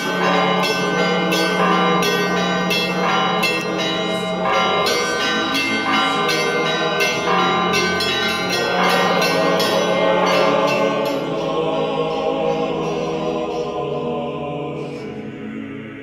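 Church bells ringing in quick repeated strikes over a wash of sustained ringing, dying away over the last few seconds.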